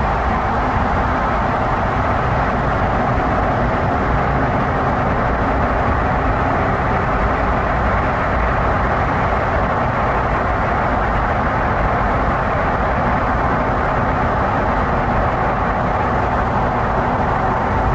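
A moving vehicle's steady travel noise: an even rumble and rush that does not change.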